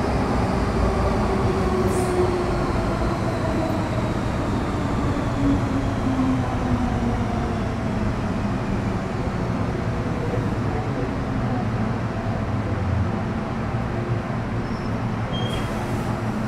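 MTR Metro Cammell M-Train (CM-Stock) running, heard from inside the car: a steady rumble under the whine of its GEC GTO chopper traction equipment and motors, whose tones fall in pitch as the train slows. A few faint clicks come through.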